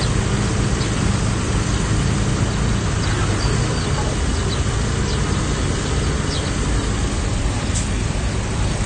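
Heavy diesel engine of earthmoving machinery running steadily, a low drone whose deepest hum fades a few seconds in.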